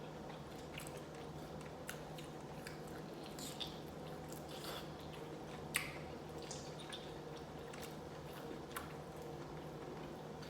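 Chewing and biting on beef short rib meat off the bone, heard as faint wet mouth clicks and squishes, with a sharper click about six seconds in. A steady low hum runs underneath.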